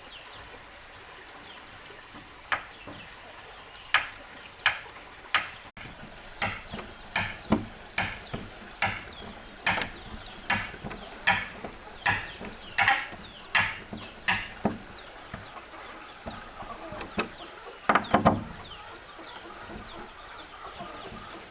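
Hammer blows in a steady run, about two a second, each with a short ringing tone, like nails being driven into timber. A few scattered knocks follow near the end.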